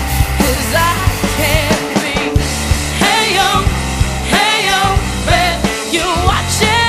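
Rock song with a singer's voice over bass guitar and a drum kit beating steadily.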